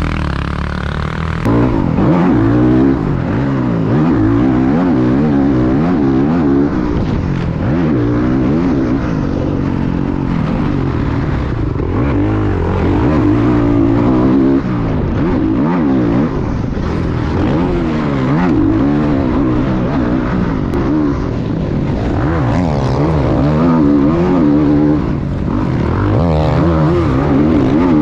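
Dirt bike engines revving up and down through the gears as they ride a motocross track, the pitch rising and falling continuously, with a few abrupt changes in level.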